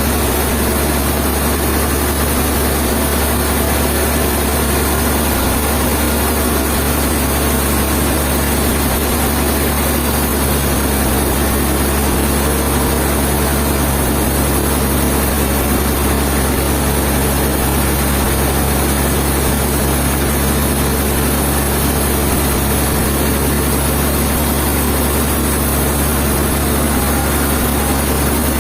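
A heavy engine running steadily with a constant low hum and no change in speed.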